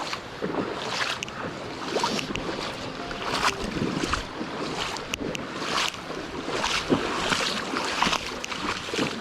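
Mountain stream water rushing, with irregular splashing swishes every half second or so.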